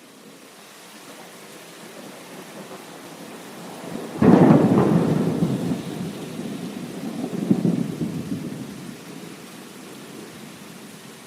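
A thunderclap about four seconds in: a sudden crack that rolls on as a low rumble, swells again a few seconds later and dies away. Steady heavy rain continues throughout.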